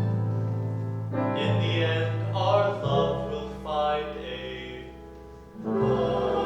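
Music: singers with instrumental accompaniment. A held chord fades, voices sing a phrase that dies away, and a fuller chord comes in near the end.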